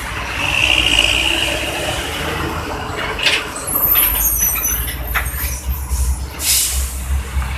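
Heavy trucks passing through a busy road junction, low engine rumble under the steady traffic noise. Brakes squeal several times, with short hisses typical of air brakes.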